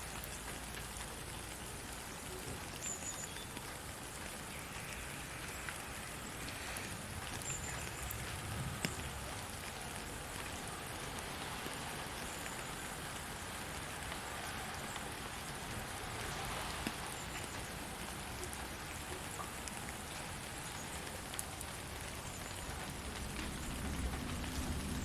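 Steady rain falling, with scattered single drops standing out as clicks.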